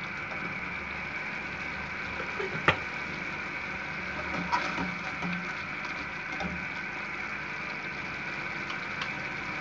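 Tomato purée sizzling as it fries in a steel pan, a steady hiss, with a steel spoon knocking against the pan a few times; the sharpest knock comes about a third of the way in.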